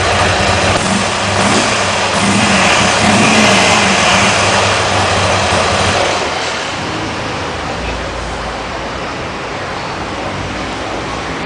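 Buell XB12S's 1203 cc air-cooled V-twin running through a custom-made muffler, revved in the first half and settling quieter and steadier after about six seconds.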